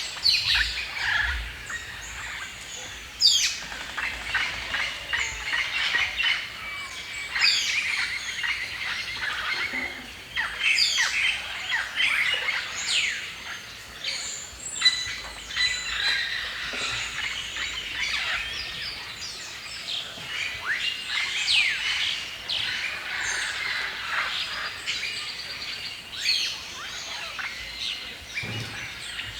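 Several songbirds singing and chirping together in a forest chorus, with many overlapping quick downward-sweeping calls and whistles throughout.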